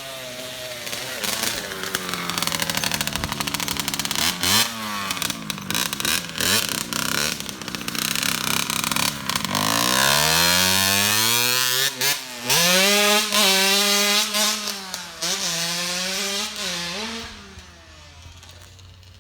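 Dirt bike engine revving as it is ridden, its pitch climbing and dropping again and again with the throttle and gear changes. It is loudest past the middle, then fades away near the end as the bike moves off.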